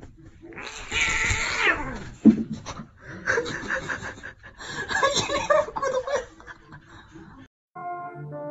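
A cat's long meow sliding down in pitch, then a person laughing in short pulses. Music starts near the end.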